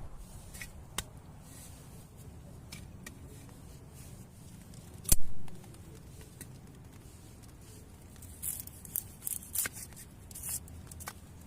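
Scattered sharp clicks and crisp rustling over a low, steady background, with one dull thump about five seconds in and a quick flurry of clicks near the end.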